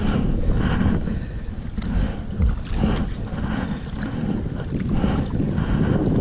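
Wind buffeting the microphone with a heavy low rumble, over water splashing and dripping from kayak paddle strokes, roughly one stroke a second.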